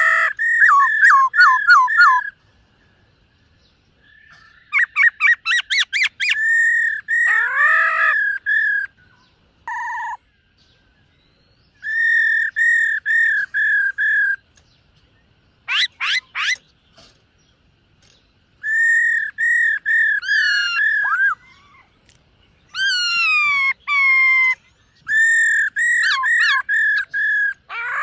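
Black-throated laughingthrush singing: loud whistled phrases of rapid repeated notes, some with falling slurs, broken by short pauses.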